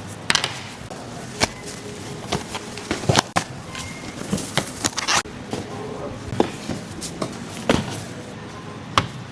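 Irregular knocks, taps and clicks, one or two a second, over a steady background hum.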